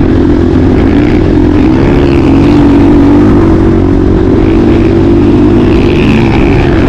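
Motocross bike engine running steadily and loud under throttle, its pitch wavering slightly.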